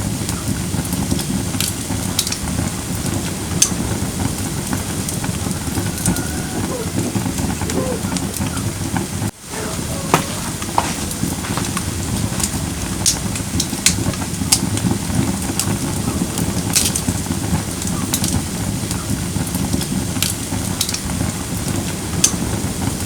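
Firewood burning in a camping fire pit: a steady low rush of flames with irregular sharp crackles and pops, and a few faint brief hisses. The sound breaks off for an instant about nine seconds in.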